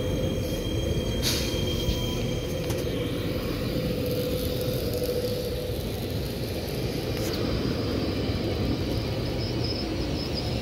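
Queensland Rail tilt train rolling slowly past at close range: a steady low rumble with a sharp click about a second in, and a faint high whine from about three seconds in.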